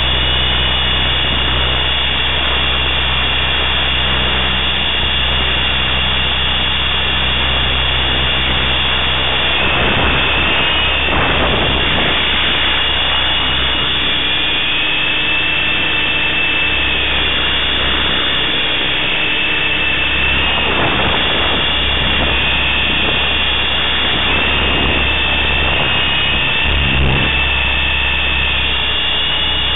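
T-Rex 500 electric RC helicopter in flight: a steady high whine from its motor and drive gears over the rush of the rotors, the pitch dipping and rising a little every few seconds as the throttle and load change.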